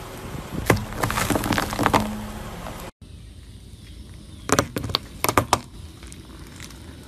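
Car tyre crushing blocks of green floral foam, a dense crunching and crackling with a few sharper snaps. After a short break, a quick cluster of sharp cracks about two-thirds of the way through as the tyre rolls over a row of small red and pink balls and bursts them.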